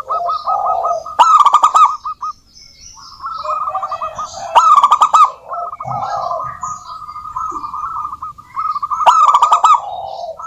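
Several zebra doves singing over one another, their rapid staccato cooing notes running in trains throughout. Louder stretches come about a second in, around the middle, and near the end, with scattered higher chirps above.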